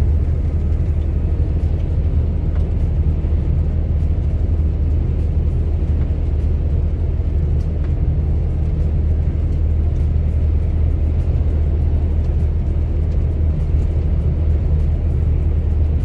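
Steady low drone of a semi-truck's diesel engine and road noise, heard from inside the cab while driving.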